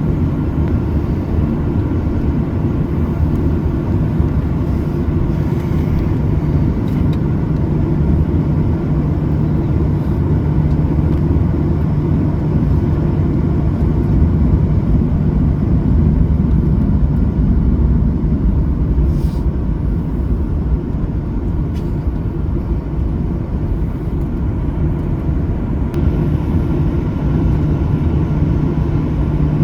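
Steady low rumble of a Boeing 737-800 cabin with the engines running, carrying a constant hum.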